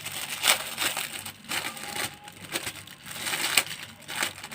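Close-up eating sounds: crisp, irregular crunching as a fried kue pastel pastry is bitten and chewed.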